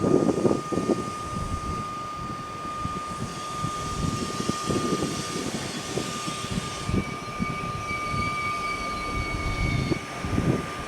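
Train running through the station: a steady whine over uneven rumbling. A rushing hiss builds a few seconds in, and a higher steady tone joins about seven seconds in, then stops about a second before the end.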